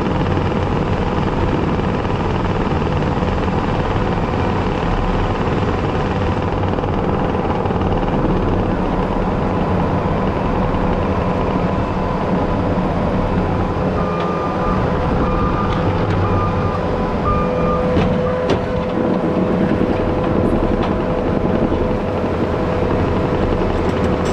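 Diesel engine of a compact track loader (track steer) running steadily under work. About two-thirds of the way through, four short beeps sound, followed by a few sharp clicks.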